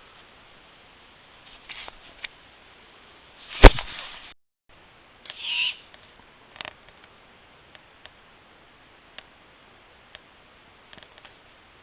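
A sharp knock about a third of the way in, then a short, noisy screech from a barn owl about a second and a half later, with scattered faint ticks and taps around them.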